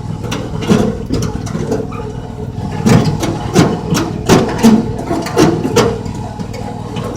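Train running with a steady low rumble and irregular clanks and rattles, typical of wheels clattering over the track.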